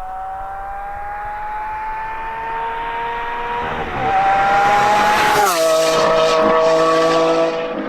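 A car engine accelerating through the gears. Its pitch climbs slowly, drops at an upshift about four seconds in, climbs briefly, and drops again at a second shift about a second and a half later. It then holds a steady, louder note.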